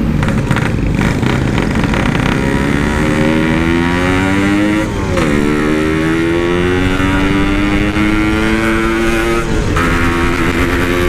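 Yamaha RX-King's single-cylinder two-stroke engine and exhaust under acceleration, the pitch climbing steadily through each gear and dropping sharply at upshifts about five seconds in and again near the end.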